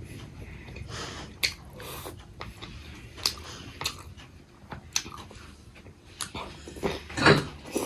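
Mouth sounds of a person chewing and eating momos, with several sharp smacks spread through and a louder burst near the end.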